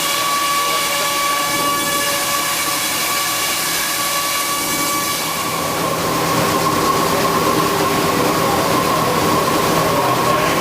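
SCM Pratix CNC router running: a steady high whine over a hissing machine noise. The whine changes and the sound grows a little louder about six seconds in.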